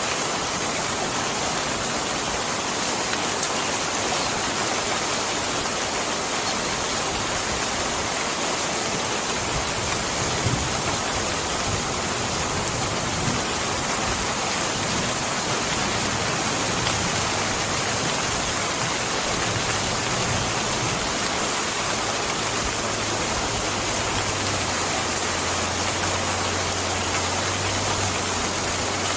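Steady, even rainfall, a constant hiss of falling rain. A low drone joins in during the last few seconds.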